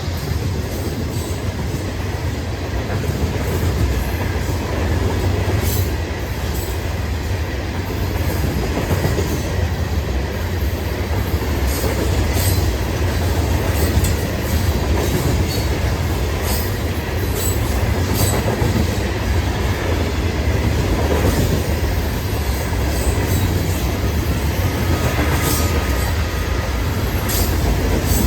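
Florida East Coast freight train's cars rolling past: a steady low rumble of wheels on rail with scattered sharp clicks from the wheels and joints.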